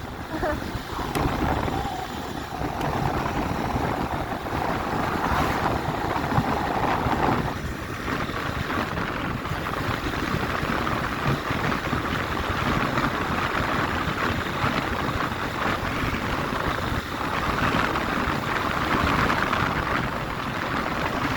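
Motorcycle riding along, its engine running under a steady rush of wind over the microphone.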